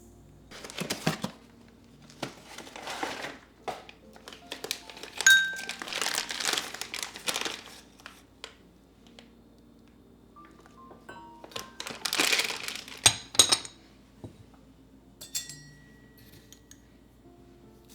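Crinkling and rustling in several irregular bursts, like material being handled, with a few sharp clicks. Faint background music plays underneath.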